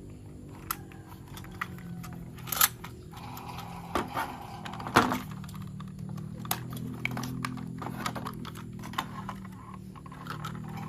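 Irregular plastic clicks, taps and small rattles from toy train parts being handled and fitted together, over a steady low hum.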